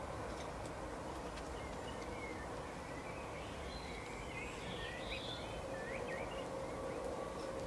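Faint short bird chirps, clustered mostly in the middle, over a steady outdoor background noise.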